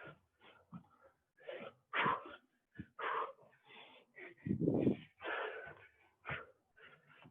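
A person breathing hard in quick, uneven gasps and forceful exhales during high-intensity jumping exercise, the heavy breathing of exertion.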